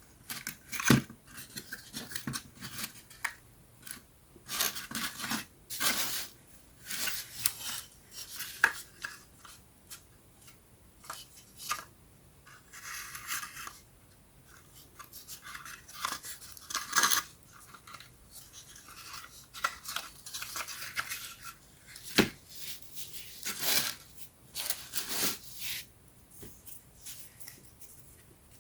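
Thin plywood pieces of a 3D wooden puzzle kit being handled and worked: irregular scraping and rustling strokes with a few sharp clicks.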